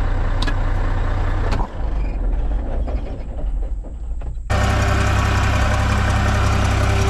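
John Deere 240 skid steer's engine running. About four and a half seconds in it suddenly gets much louder and busier, as the machine is throttled up to work the bucket.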